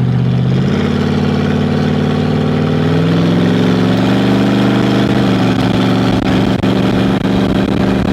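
The rat rod's Cadillac engine running loud under way: its pitch steps up about a second in, climbs again a few seconds later as the car accelerates, then holds steady at cruising speed.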